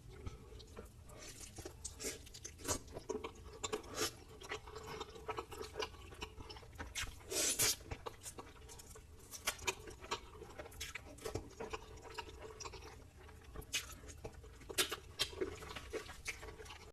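Close-miked chewing and crunching into fried chicken masala lollipops: irregular crisp bites and chews throughout, with one longer, louder noisy sound about seven and a half seconds in.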